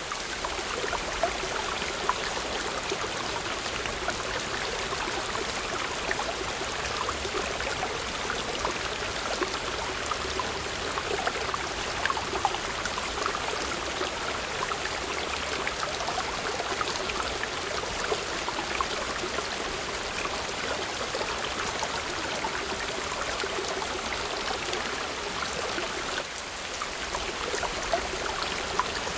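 Water falling and splashing in a small waterfall: a steady rush of noise with frequent little splashes and drips on top.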